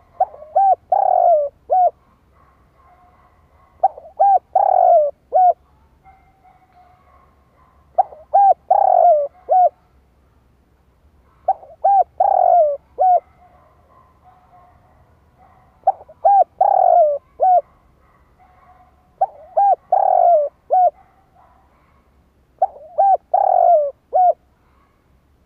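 Spotted dove cooing, the call that Vietnamese bird keepers use to rouse and lure wild doves. The same phrase of a few short coos, one longer falling coo and a short final note repeats seven times, about every four seconds.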